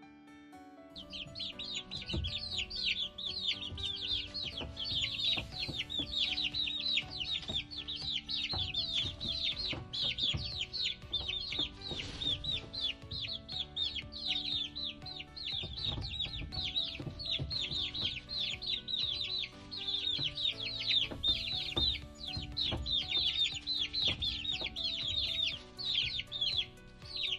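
Chicks peeping: a dense, continuous run of short, high, falling peeps that starts about a second in.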